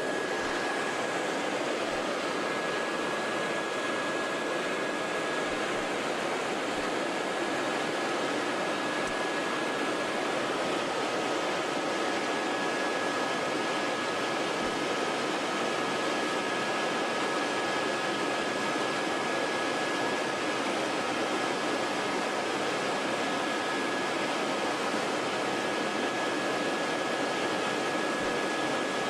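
Helicopter cabin noise in flight: a steady, even rush with a thin high whine running through it, and a second, slightly lower whine joining about ten seconds in.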